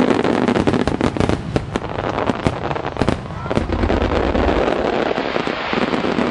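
Fireworks display: many shells bursting in quick succession, a dense run of bangs over continuous crackling.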